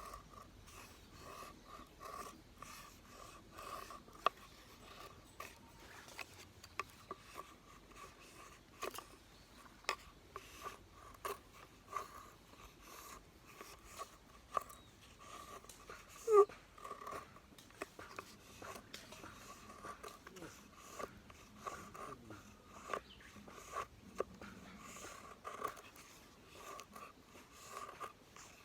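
Wood campfire crackling, with scattered sharp pops throughout. About halfway through, a short falling squeal is the loudest sound.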